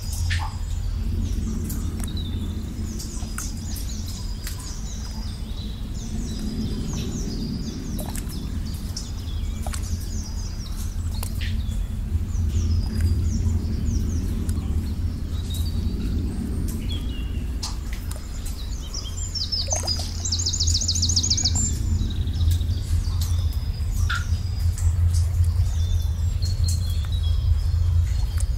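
Songbirds chirping and calling over a steady low rumble, with scattered sharp clicks. About two-thirds of the way through, one bird gives a fast trill lasting about a second.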